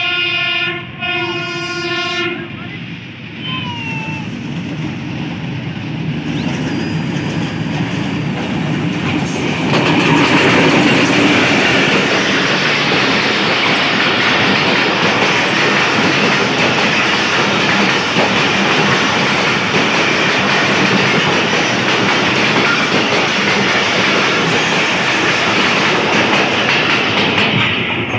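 Passenger train hauled by a Pakistan Railways HBU-20 diesel-electric locomotive: the horn sounds twice, then the train rumbles closer and the locomotive goes past about ten seconds in, followed by the coaches' wheels clattering over the rail joints at the level crossing.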